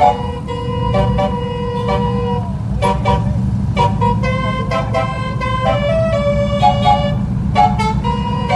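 Multi-tone musical truck horns sounding a quick run of held notes at changing pitches, over a steady low engine and road rumble.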